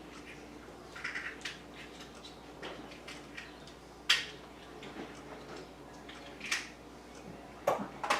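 Small hard objects being handled and set down among craft supplies while someone looks for a container: scattered clicks, clinks and light knocks, the sharpest about four seconds in and a few more near the end.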